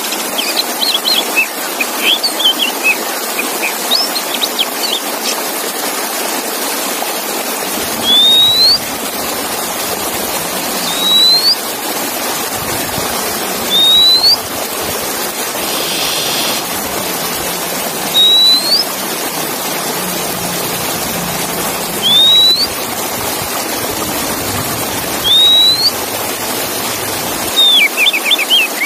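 Male Oriental magpie-robin (kacer) song: a quick run of varied chirps at first, then a single rising whistle repeated about every three to four seconds, with a short buzzy note midway and a few falling notes near the end, over a steady hiss.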